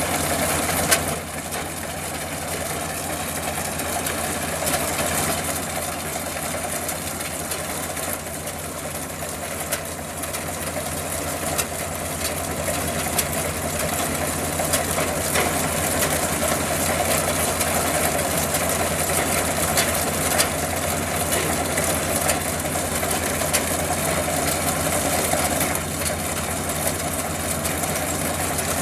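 Combine harvester's diesel engine running steadily, with a single knock about a second in.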